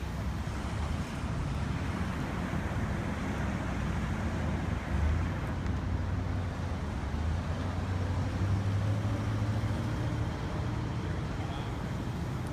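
Road traffic passing close by: a steady rumble of vehicles, with louder swells as cars go past about five seconds in and again around nine seconds.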